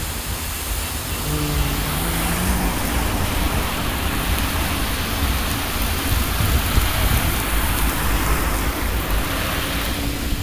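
Heavy rain falling steadily, mixed with the hiss of car traffic on a wet street.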